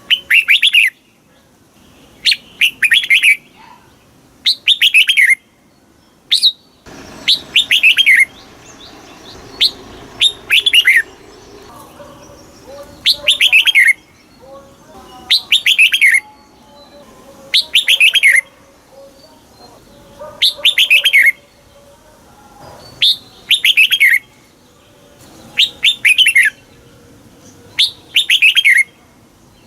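Red-whiskered bulbul singing: loud, short phrases of quick falling notes, repeated about every two seconds.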